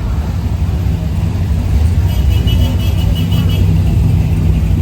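Car engine running with a steady deep low rumble.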